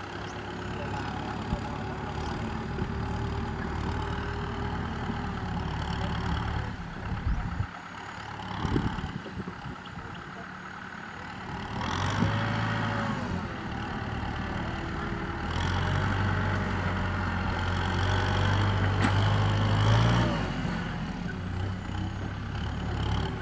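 Kubota M6040SU tractor's diesel engine running while pushing soil. Its note drops back about seven seconds in, picks up again around twelve seconds, and is loudest between about sixteen and twenty seconds.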